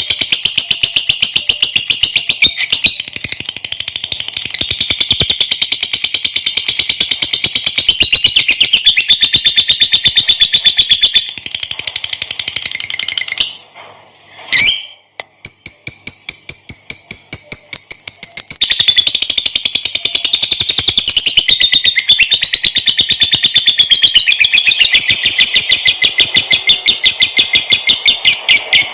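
Lovebird singing a long 'ngekek' chatter: a loud, very rapid stream of high-pitched repeated notes, broken off for about a second and a half a little past the middle, then resuming.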